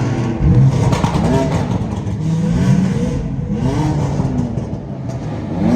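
Sports car engines revving hard, the pitch climbing and dropping again about five or six times in quick succession.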